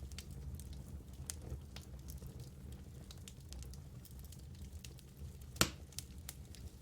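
Wood fire in a fireplace crackling, with a low steady rumble, scattered small pops, and one sharp louder pop about five and a half seconds in.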